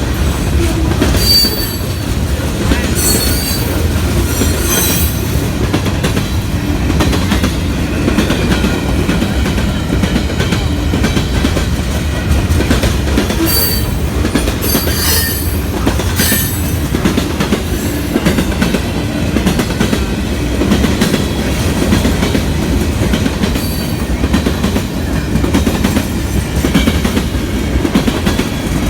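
Freight train cars of a manifest train rolling past with a steady rumble of wheels on rail. Several brief high wheel squeals and clanks come in the first few seconds and again around the middle.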